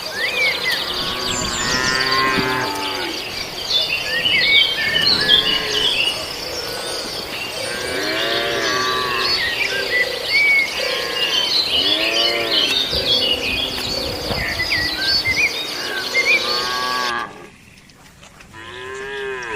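A herd of cattle mooing, call after call, some overlapping, over busy high chirping and a steady high insect drone. A few seconds before the end the sound drops and the chirping cuts off, while the mooing goes on.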